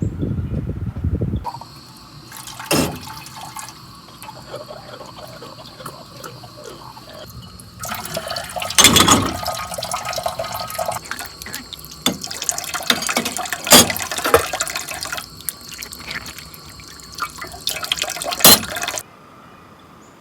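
Water splashing and dripping, with scattered sharp knocks. It gets louder about eight seconds in and cuts off suddenly near the end.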